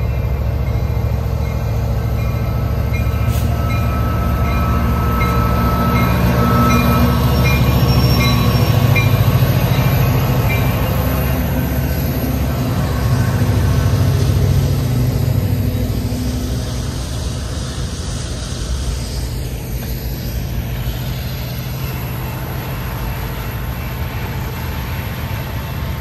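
A BNSF freight train's lead diesel locomotives, two EMD SD75Ms and a GE ES44AC, pass close by with a heavy engine rumble that is loudest in the first half. After about sixteen seconds it gives way to the steadier rolling noise of freight cars on the rails. A grade-crossing bell dings at an even pace over the first ten seconds or so.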